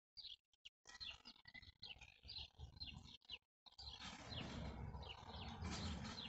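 Small birds chirping: many short, quickly falling notes. A louder rustling, scraping noise joins just past halfway.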